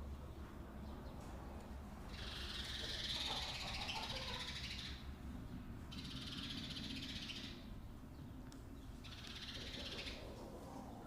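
Animal calls: three bouts of high, rapid trilling, the first about three seconds long and the later two shorter.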